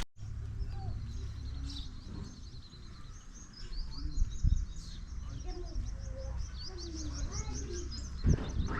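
Small birds chirping outdoors, with a rapid run of short high chirps in the second half, over a low steady rumble; a couple of brief knocks.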